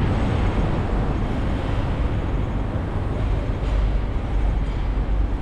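Road traffic noise: a steady rumble of vehicles on a busy road, with no single vehicle standing out.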